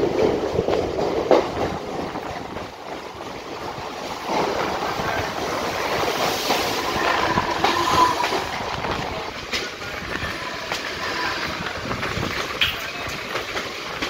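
Trains running on rails: steel wheels clattering over rail joints as a Central Railway electric suburban local train passes very close, with a faint whine near the middle.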